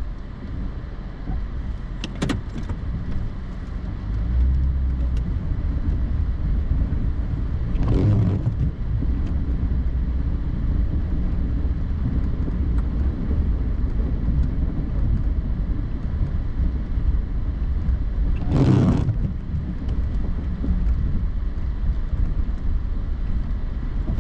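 Pickup truck engine running with a steady low rumble that grows louder about four seconds in, as if under more load. A sharp click comes early, and two short swishes come about a third and three quarters of the way through.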